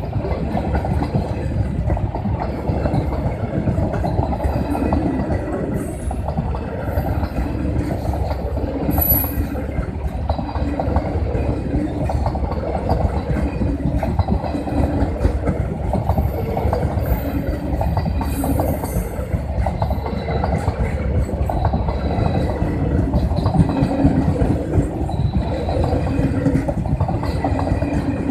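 Simanchal Express passenger train rolling past a level crossing, its coaches making a steady, loud rumble on the rails that holds for the whole stretch.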